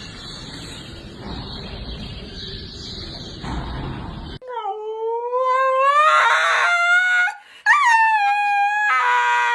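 A dog howling in two long drawn-out calls, the first rising in pitch and the second higher and steadier. Before it, about four seconds of steady noisy background that breaks off suddenly.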